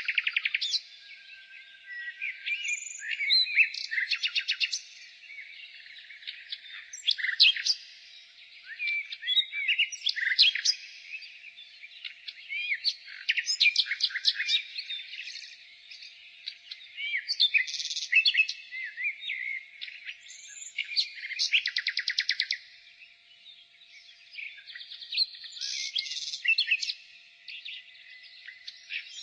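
Nightingale singing: a string of varied phrases a few seconds apart, many built on fast runs of repeated notes, with short pauses between.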